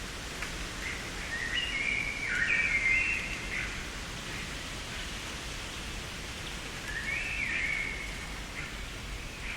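A songbird singing two short phrases of clear whistled notes, one about two seconds in and another about seven seconds in, over a steady background hiss.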